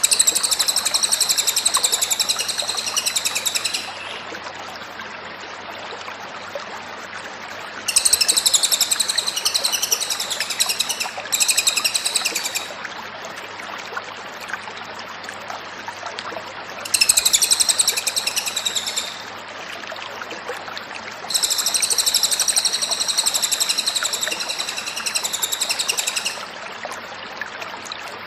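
A cililin songbird singing in loud bursts of rapid, high-pitched chattering trills, five phrases of one and a half to five seconds with pauses between them, over a steady background hiss.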